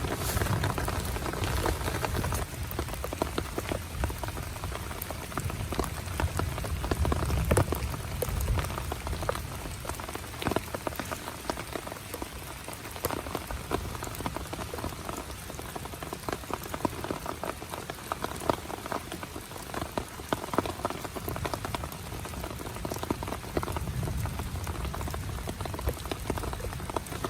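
Heavy rain drumming on a tent, a dense patter of drops with many sharp individual hits. A low rumble sits under it at the start and swells again near the end.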